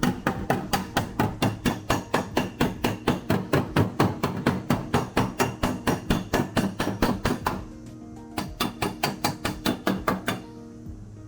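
Sheet-metal hammer rapidly striking a Toyota AE86's steel body panel, about five blows a second, with a short pause about two-thirds through before another run of blows. Background music plays underneath.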